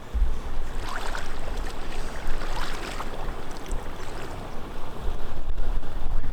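Water sloshing and splashing, with a low rumble of wind on the microphone.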